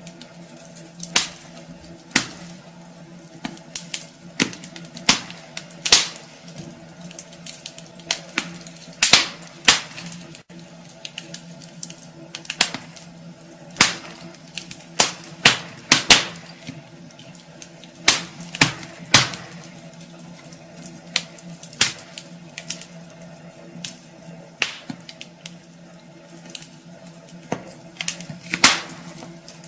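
Wood fire in a fireplace crackling, with irregular sharp pops and snaps, a few a second and unevenly spaced, some much louder than others.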